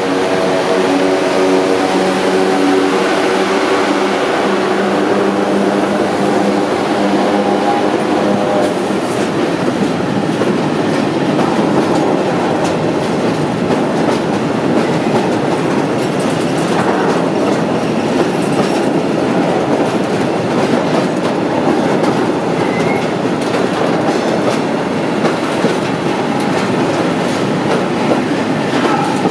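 ET40 twin-section electric locomotive passing with a steady multi-tone hum for about the first eight seconds. A long train of tank wagons follows, rolling by with the wheels clattering over the rail joints.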